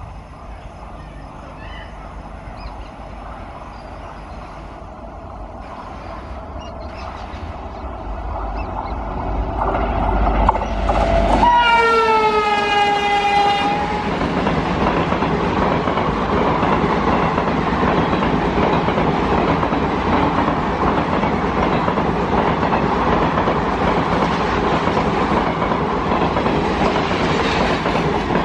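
Indian Railways Parasuram Express passenger train arriving: its running noise grows louder, the locomotive sounds one horn blast of about two and a half seconds that drops slightly in pitch as it passes, and then the coaches run by with a steady rumble.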